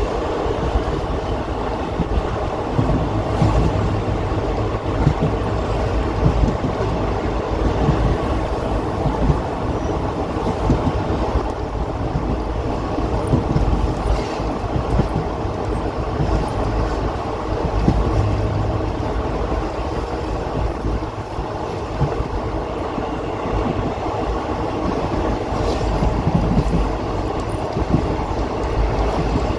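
A train running along the rails, heard from beside an open carriage window: a steady rumble of wheels and carriage.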